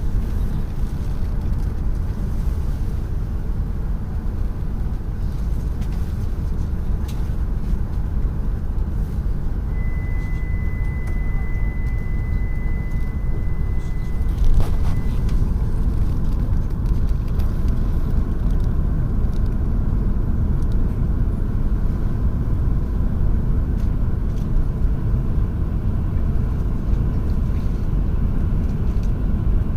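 Tohoku Shinkansen train running at speed, heard from inside the car: a steady low rumble. A thin high tone sounds for about five seconds around the middle, and a short knock comes just as it ends.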